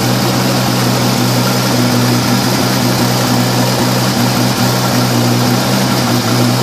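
Nissan GT-R's 3.8-litre twin-turbo V6 (VR38DETT) idling steadily. It is running without its mass airflow sensors, so it runs a little rough.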